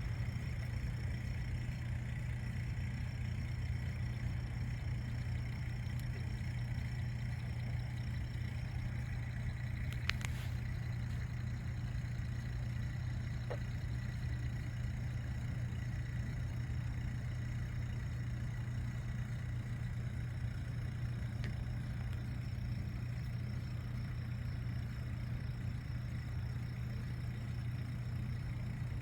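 Pump running with a steady, unchanging low hum; the man filming believes it aerates the lake.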